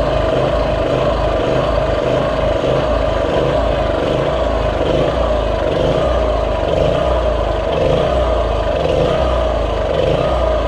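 Small pull-start petrol engine running steadily after being reassembled, with a new starter cord and the flywheel refitted. It will not shut off because its stop switch is not seating properly.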